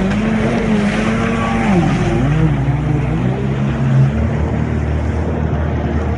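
Jet ski engine running over a steady rush of water and wind. About two seconds in its pitch dips and wavers as the revs change, then it settles into a lower steady note.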